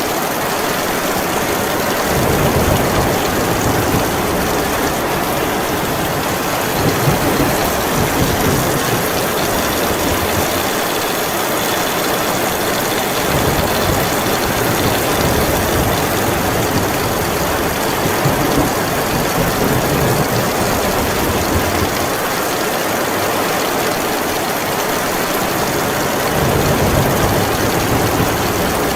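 Heavy rain falling steadily in a storm, a dense even hiss, with low rumbling that swells and fades three times.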